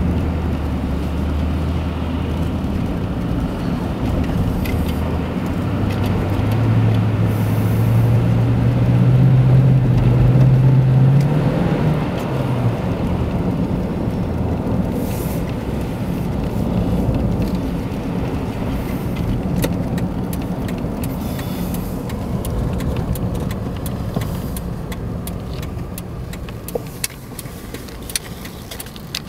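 Car driving on the road: steady engine hum and tyre noise, the engine note rising as the car speeds up about a quarter of the way in, then dropping back to an even cruise.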